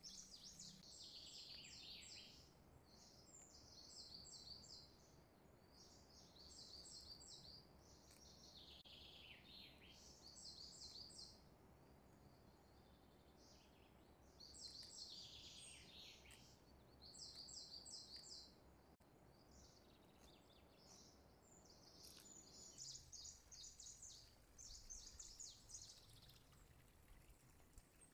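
Faint bird chirping: quick high trills and short downward-sweeping calls, repeated every second or two, over a faint low hum that drops away near the end.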